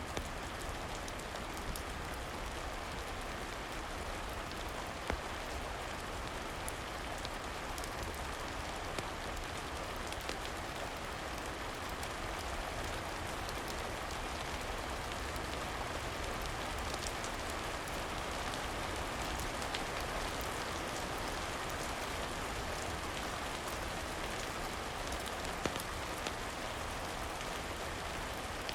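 Steady rain, an even hiss with scattered sharp ticks and a few louder clicks.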